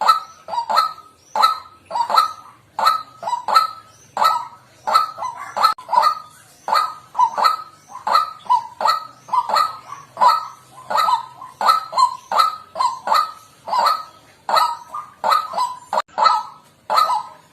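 White-breasted waterhen calling: a steady run of short repeated notes, about two to three a second, with no break.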